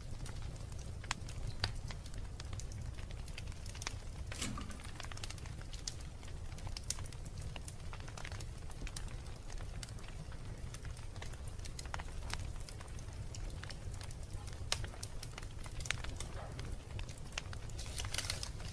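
Wood fire burning in a fireplace, crackling with sharp, irregular pops over a steady low rumble, the pops bunching up about four seconds in and again near the end.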